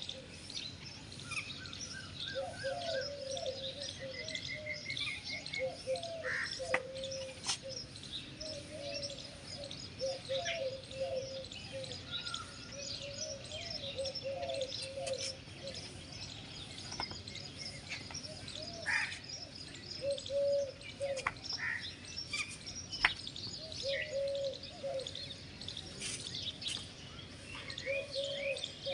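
Several birds chirping and calling at once. A lower warbling call comes back in short phrases every few seconds, and there are a few short knocks.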